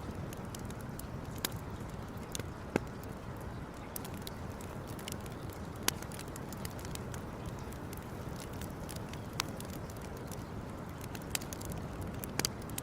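Campfire crackling, with a handful of sharp pops scattered over a steady low rumble.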